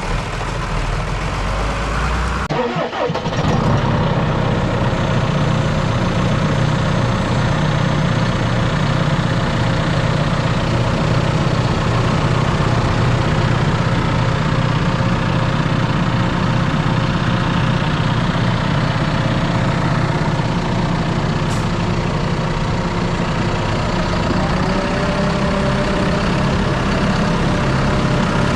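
John Deere tractor diesel engine running steadily at a low, even speed. There is a brief break in the sound about three seconds in, then it runs on unchanged.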